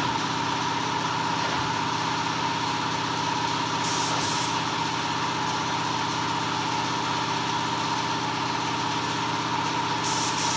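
Lorry engine idling steadily, with two short hisses of air, about four seconds in and again near the end.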